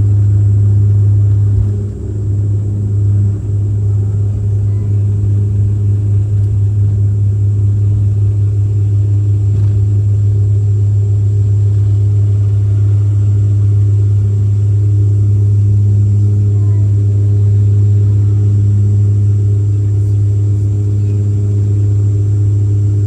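Dash 8 turboprop's propellers heard from inside the cabin: a loud, steady low hum with a few fainter steady tones above it, dipping briefly about two seconds in.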